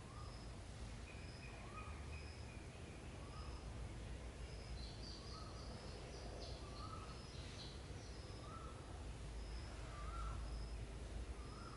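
Faint bird chirps repeating about once a second, each a short rising note, with thinner high pips between them, over a low steady hum.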